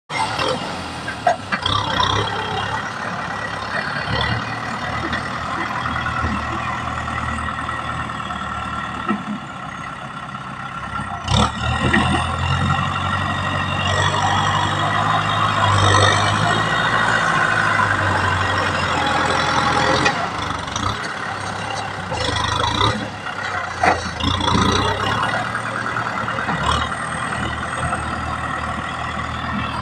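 Kubota M6040 tractor's four-cylinder diesel engine running while working, louder and stronger for several seconds in the middle. A few sharp knocks or clanks sound along the way.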